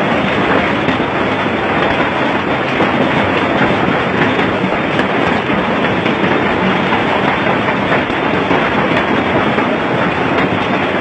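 Heavy rain falling, a loud, steady, dense hiss that does not let up.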